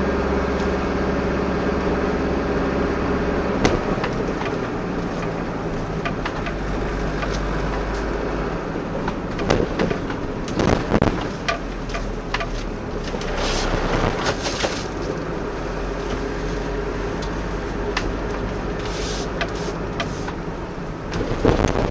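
Motor vehicle engine running steadily with a constant low hum, with scattered knocks and short rattling bursts.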